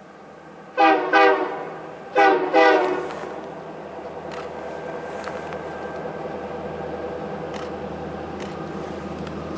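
Diesel locomotive air horn sounding four short chord blasts in two pairs, followed by the steady rumble of the train that slowly grows louder.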